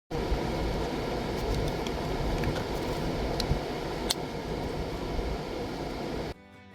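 Steady rumbling noise with a few faint ticks, cutting in suddenly and stopping shortly before the end, where fiddle and guitar music begins.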